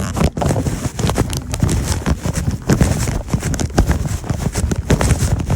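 Hurried footsteps with the handheld phone jostling: an uneven run of thumps, several a second.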